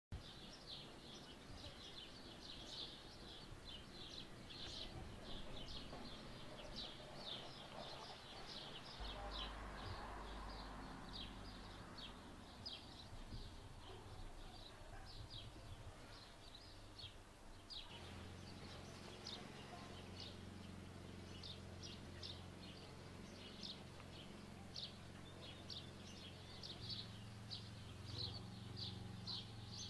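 Small birds chirping, a steady run of short high chirps, over a faint low background rumble.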